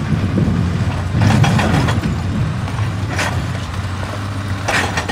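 Excavator's diesel engine running steadily, with short bursts of rock crunching about a second in, around three seconds in and near the end.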